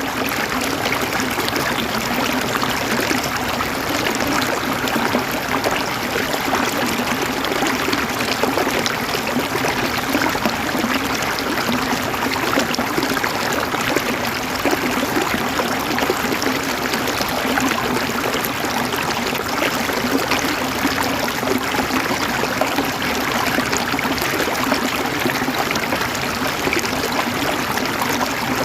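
River water flowing and gurgling steadily, an even rushing sound with no breaks.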